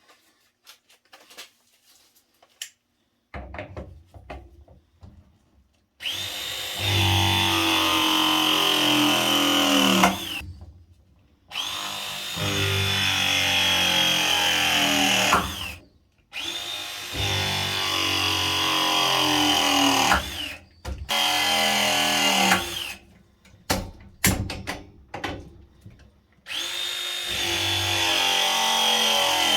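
Battery-powered pipe press tool running through repeated press cycles on copper fittings: four runs of about four seconds each and one short run, each winding up with a whine, its pitch sinking as it works, then stopping abruptly, with light clicks of handling between runs.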